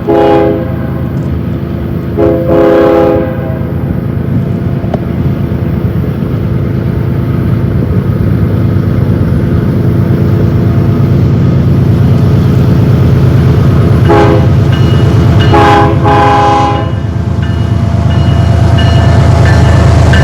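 BNSF diesel freight locomotives' air horn sounding over the steady rumble of the engines: a blast ending just after the start, another at about two seconds, then a short blast and a longer one around fourteen to seventeen seconds in. The engine rumble grows louder toward the end as the train comes closer.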